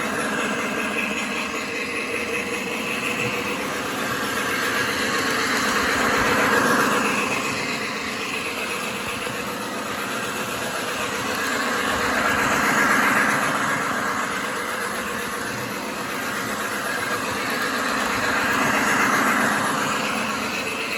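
Lionel Union Pacific model train locomotive running around a layout loop. Its motor, wheel rumble and onboard engine sound are steady, and swell louder each time it passes close, about every six seconds.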